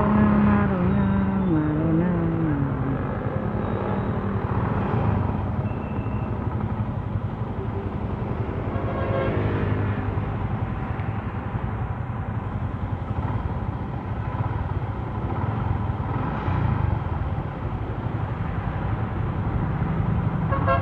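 Motorcycle engine and road noise recorded on the bike during a city ride: the engine note falls over the first couple of seconds as it slows, then climbs again around nine seconds in as it speeds up, over a steady rumble.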